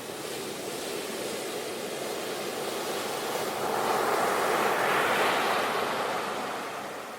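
Sea waves breaking and washing onto the shore. The surf makes a steady rush that swells to its loudest about four to five seconds in, then ebbs away near the end.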